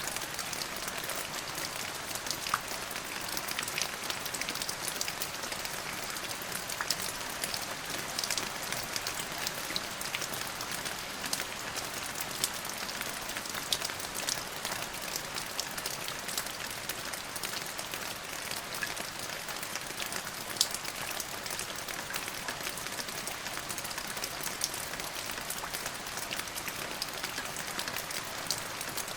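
Steady rain falling, a dense even hiss dotted with many small sharp drop ticks.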